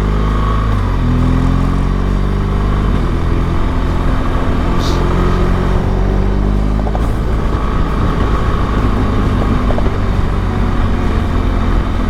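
Motorcycle engine running under way, its pitch rising and falling over the first few seconds as it changes speed, then holding steady under constant wind and road noise.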